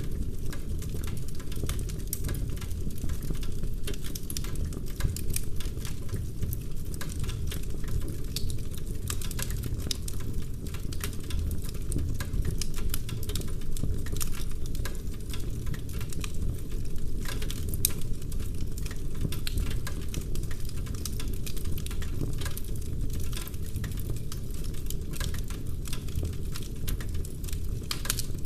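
Wood fire burning in a fireplace: dense, irregular crackling and popping of logs over a steady low rumble of the flames.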